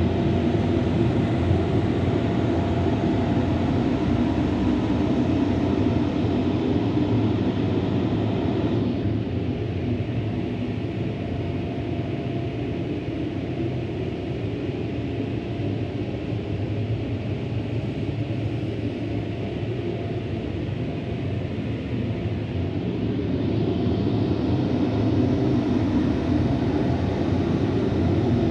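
Automatic car wash machinery heard from inside the car: a steady rumbling rush. The higher hiss drops away about a third of the way in and returns near the end.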